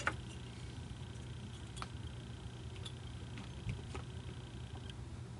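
A few scattered light clicks and taps of handling during hot-glue work, over a steady low hum.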